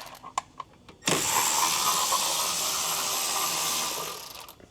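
A few light clicks, then a handheld cordless power tool runs steadily for about three seconds, backing out a brake caliper bolt.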